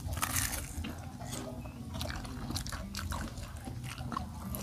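Two people biting into and chewing crispy-coated fried tofu close to clip-on microphones: irregular crunches throughout.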